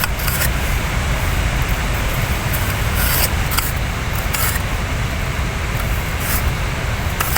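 Wind buffeting the microphone: a steady loud rushing noise with an uneven low rumble, broken by a few short crisp clicks.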